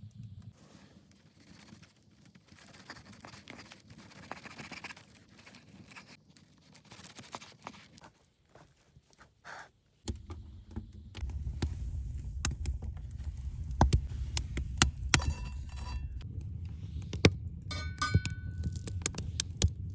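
Light scrapes and knocks, then after an abrupt change about halfway a steady low rumble under many sharp clicks and metallic clinks, with a few brief ringing metal tones near the end.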